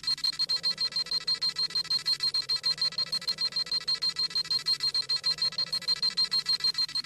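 Dragon Ball Z scouter sound effect: a rapid, steady run of high electronic beeps repeating evenly several times a second, the device scanning a power level.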